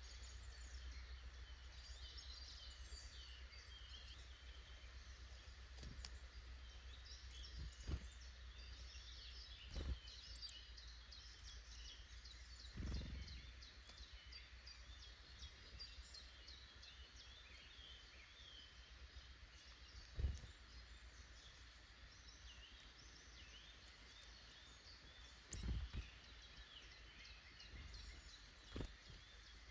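Wild woodland birds chirping and calling, many small high calls overlapping throughout, over a faint low rumble. About six brief dull thumps break in, the loudest a little past the middle.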